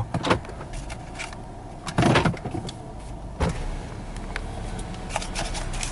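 Inside a car with the engine idling, a power window motor lowers the window while several knocks and rustles sound, the loudest about two seconds in and a run of clicks near the end.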